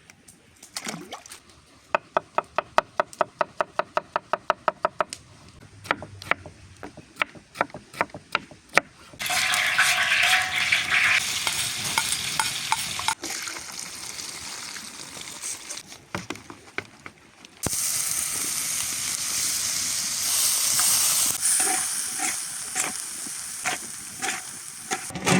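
Outdoor cooking: a run of quick, even knocks, about five a second, for a few seconds, then food sizzling in a hot pan, starting about nine seconds in and again, steady, for the last several seconds.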